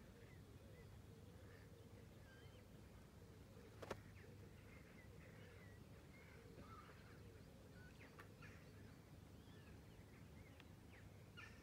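Faint bird calls: many short chirps and whistles scattered throughout over a steady low background hum, with one sharp click about four seconds in.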